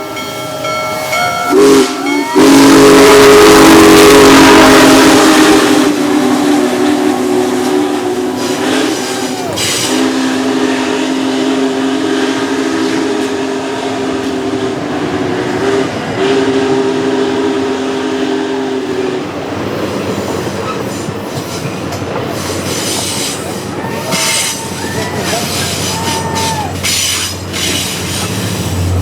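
Union Pacific Big Boy 4014's steam whistle blowing a chord in several long blasts with short breaks, loudest a few seconds in amid a rush of steam and running noise. The whistle stops after about 19 seconds, and the train's cars roll past with clatter and some wheel squeal.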